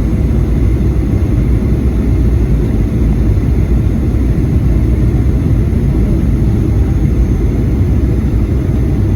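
Steady low rumble inside the cabin of a Boeing 737-800: its CFM56 engines and the airflow, with faint steady tones over the rumble.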